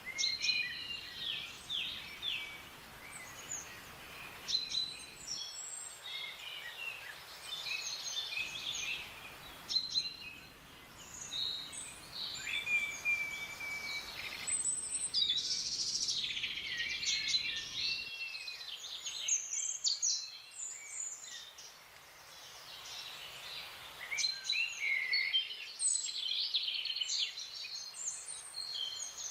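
Several wild forest birds chirping and calling at once, a busy chorus of short high chirps, whistles and trills over a faint background hiss.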